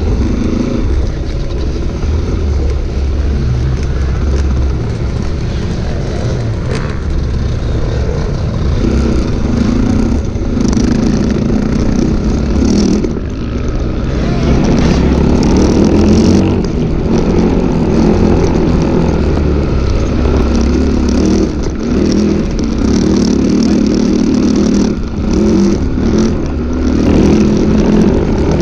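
250cc enduro motorcycle engine running hard under load, its pitch rising and falling repeatedly as the throttle is opened and closed, with heavy low rumble.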